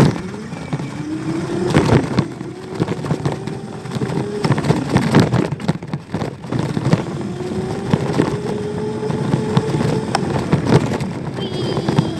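Small dirt bike's motor riding along, its pitch rising as it speeds up, dropping about halfway through, then climbing and holding again. Irregular crackling and knocking runs through it.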